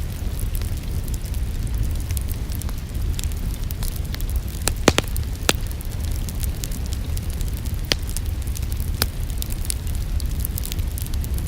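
Wood fire in a fireplace crackling, with scattered sharp pops over a steady low rumble; the loudest pops come about five seconds in.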